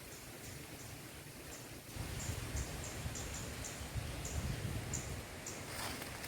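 Series of short, high-pitched animal chirps, a dozen or so at uneven spacing, over outdoor ambience, with a low rumble coming in about two seconds in.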